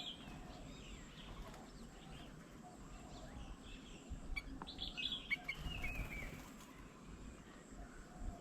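Small birds chirping and calling, busiest about halfway through, with a short falling call among the chirps.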